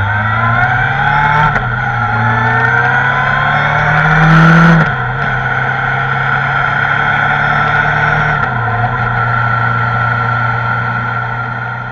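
Kawasaki ZR-7S's inline-four engine under way, the engine note rising as it accelerates, then dropping about five seconds in at a gear change. After that it holds a steady cruising note and fades toward the end.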